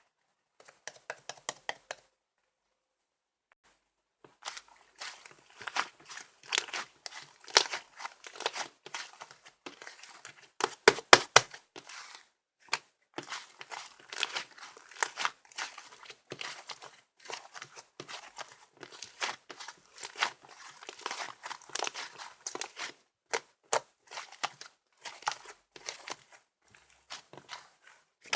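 Slime being squished and kneaded by hand, making dense, irregular crackling and popping clicks. A few clicks come first, then a brief pause, then steady crackling for the rest.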